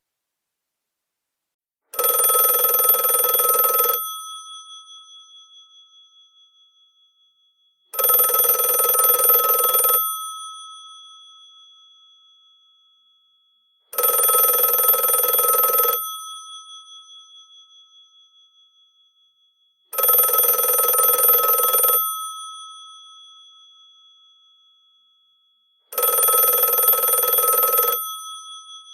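Old telephone's bell ringing: five rings of about two seconds each, one every six seconds, each ring dying away slowly as the bells keep sounding.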